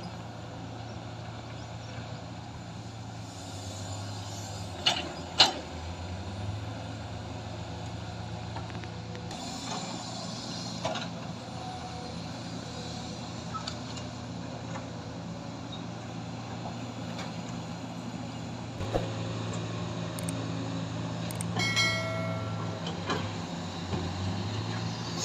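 Excavator's diesel engine running steadily, its pitch rising and falling a little as it works. It is broken by a few sharp knocks, the two loudest about five seconds in, and some metallic clanks near the end.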